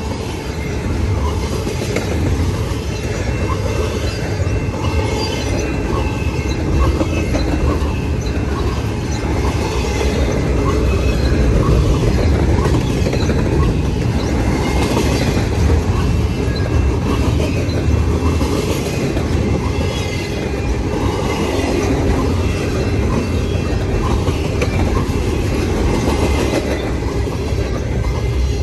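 Cars of a mixed grain and intermodal freight train rolling past: a steady rumble and clatter of steel wheels on the rails, with a faint thin wheel squeal.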